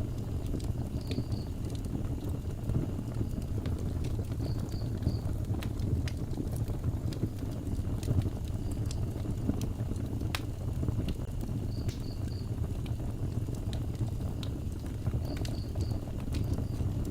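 Outdoor wood fire burning steadily, a low rumble with scattered sharp crackles and pops from the burning wood. Short high chirps in groups of two or three come every few seconds.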